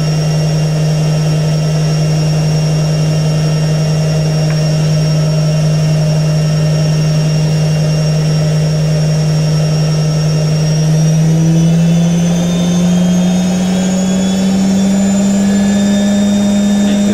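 IKEA RENLIG IWM60 washing machine spinning at high speed: a loud, steady motor whine with drum rumble, its pitch rising about 11 seconds in as the spin steps up to a faster speed, then holding there. The owner notes some roughness from the motor bearings.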